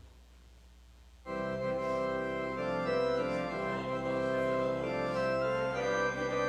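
Organ music starting abruptly about a second in, with full sustained chords that change a few times.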